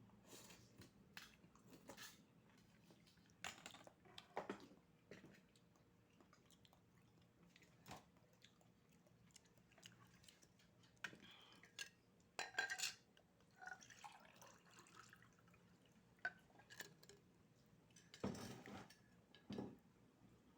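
Faint, scattered clinks and clicks of oyster shells and eating utensils, a dozen or so spread irregularly, with a few wet eating sounds among them.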